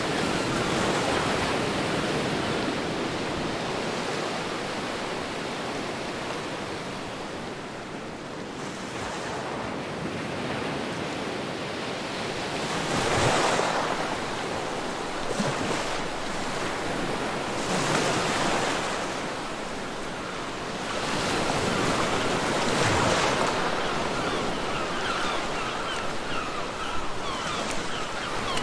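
Ocean waves breaking and washing on a beach, with swells rising and falling every few seconds, and wind.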